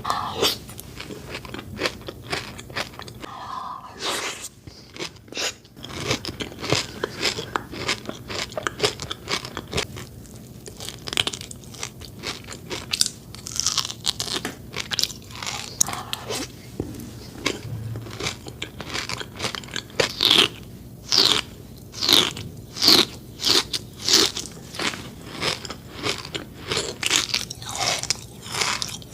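Close-miked crunching and chewing of Dubai chocolate: bites through the chocolate shell and crispy kataifi pastry filling give a steady run of sharp crunches. The loudest, most regular crunches come about two-thirds of the way through, roughly one a second.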